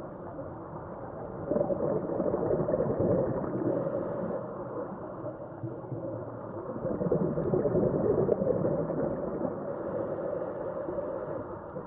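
Muffled underwater rushing noise, as picked up by a camera under water, swelling twice.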